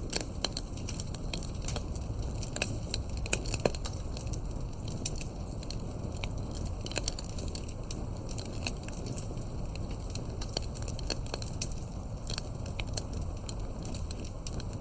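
Campfire burning, with a steady low rumble and many sharp, irregular crackles and pops of burning wood.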